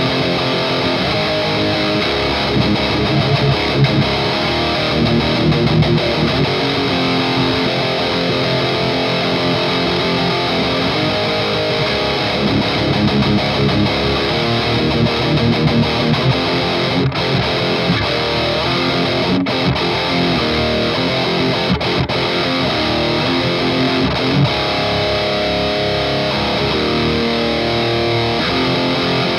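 Electric guitar played through a distorted, overdriven EVH Iconic amp: continuous riffs and chords, with a few brief breaks partway through.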